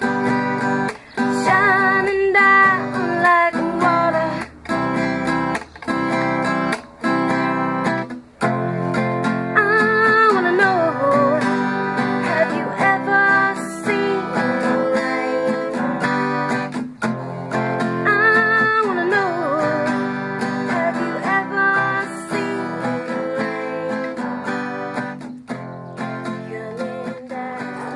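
Acoustic guitar strumming steadily with a voice singing a melody over it.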